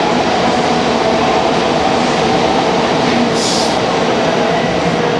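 Tokaido Shinkansen train running past alongside the platform: a steady rush of wheel and running noise with humming tones underneath. A short high hiss comes about three and a half seconds in.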